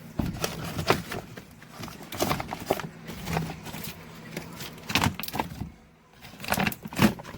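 Plastic car door trim being pried at and handled: irregular clicks and knocks, with a few sharper snaps.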